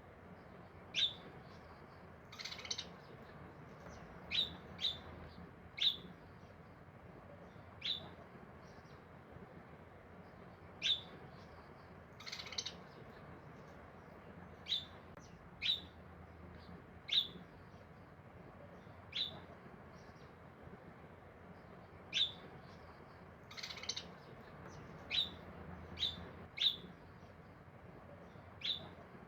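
A bird chirping in short, sharp calls every second or two, some in quick pairs, over a faint steady hiss.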